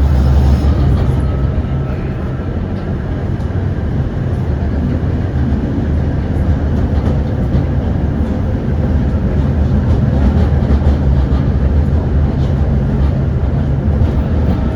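Tram moving along the track, heard from inside the car: a steady low rumble of wheels on rails and running gear that eases a little a couple of seconds in, then builds again.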